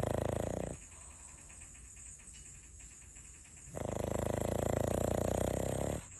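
Pug snoring: a long snore with a fast flutter ends about a second in, then a quiet breath, then a second long fluttering snore from about four seconds in until just before the end.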